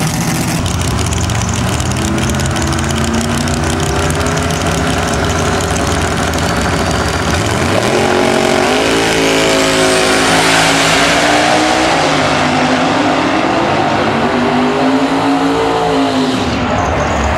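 Drag-racing car engines running at the line, then a launch about eight seconds in: the engine pitch climbs and drops back several times through the gear changes before the engine note cuts off sharply near the end.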